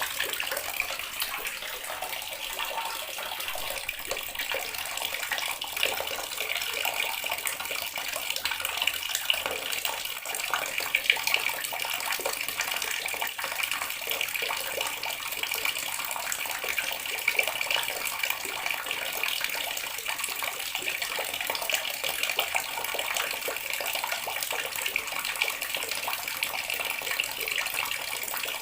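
Water running steadily from a tap and splashing, with small irregular splashes through it.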